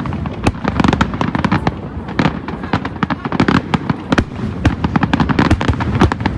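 Aerial fireworks display: a dense, rapid run of shell bursts and crackling bangs, many a second, over a low rumble.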